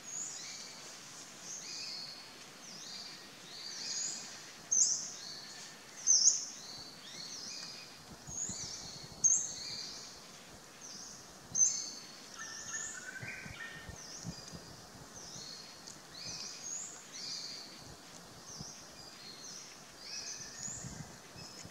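Birds chirping: quick, high, falling notes repeated several times a second, with a few louder chirps about five, six, nine and twelve seconds in and a short lower run of notes around thirteen seconds.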